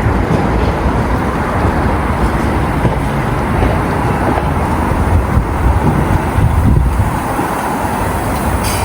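Steady rumble of a passing train, heavy in the low end, swelling slightly a few seconds before the end.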